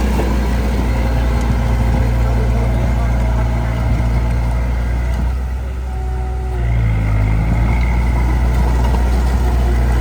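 Heavy diesel engine of earthmoving machinery running with a deep, steady drone; a little past halfway it eases off briefly, then its pitch shifts as it picks up again.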